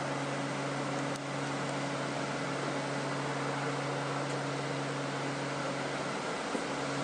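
Alexander Dennis Enviro 200 bus's diesel engine idling steadily, an even hum with a hiss, with one brief click about a second in.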